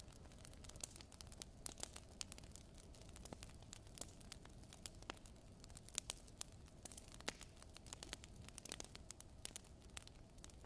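Firewood crackling in a fireplace: faint, irregular sharp snaps and pops, several a second, over a low rushing noise.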